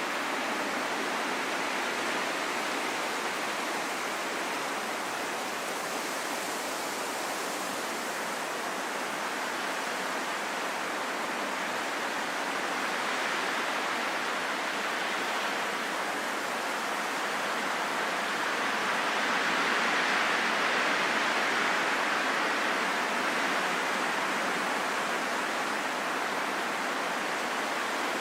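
Steady rain falling in a forest: an even hiss with no single drops standing out, swelling a little about twenty seconds in.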